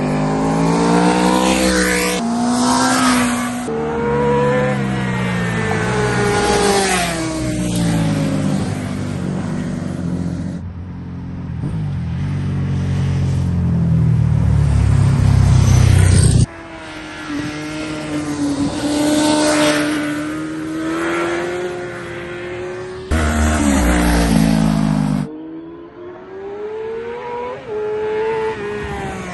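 Big sport motorcycle engines revving hard and passing at speed, over several back-to-back clips that cut off abruptly. The pitch climbs through the gears and drops away as the bikes go by.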